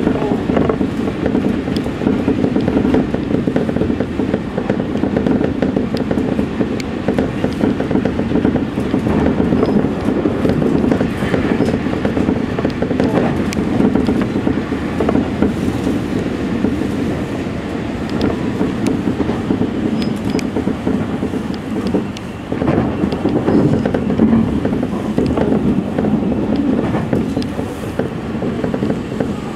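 Electric commuter train running on the Seibu Ikebukuro Line, heard from just behind the driver's cab. A steady rumble of wheels on rail carries scattered clicks as the wheels cross rail joints and points.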